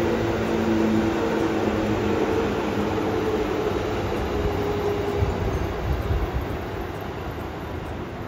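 A train running by, with an electric whine of a few tones that slowly falls in pitch and fades out about two-thirds of the way through. Under it is a steady rumble of running noise that grows quieter toward the end.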